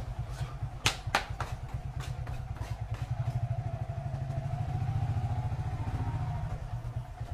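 Motorcycle engine running at low speed, pulsing steadily, getting louder in the middle and easing off near the end. Two sharp knocks come about a second in.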